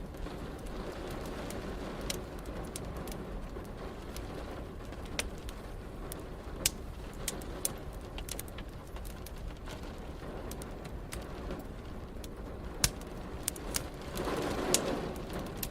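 Wood fire crackling in a fireplace: irregular sharp pops over a steady hiss of rain and a low rumble. A brief swell of deeper sound rises and fades near the end.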